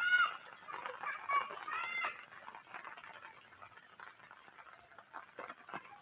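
Domestic fowl clucking, with a few short calls in the first two seconds and fainter scattered sounds after.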